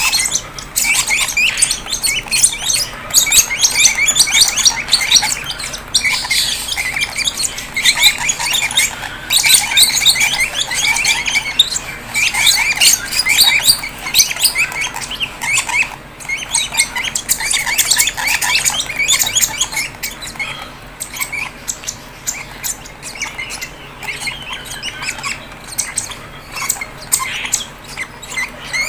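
Fischer's lovebird chicks squawking and chirping rapidly and almost without pause: the begging calls of chicks at hand-feeding time.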